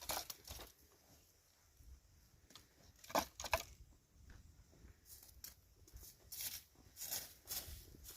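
Irregular crunching and crackling handling noises, a few at a time, with the two loudest close together about three seconds in.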